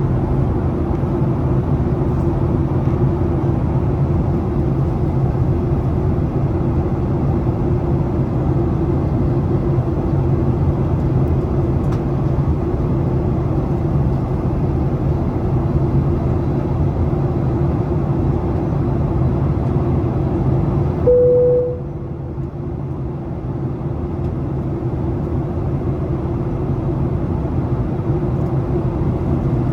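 Steady cabin noise of a Boeing 737 on approach: engine hum and rushing airflow. About two-thirds of the way through, a brief single tone sounds, then the noise drops and slowly builds back up.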